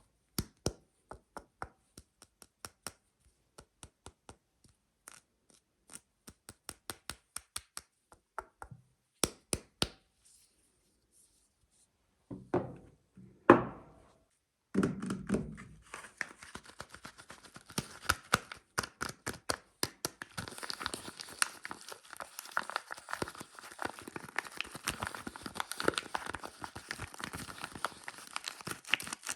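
Soap-unpacking sounds: sharp single taps, a few a second, on a wrapped soap bar. After a short silence and a few heavier thuds, the wrapper is torn and crinkled steadily for the second half.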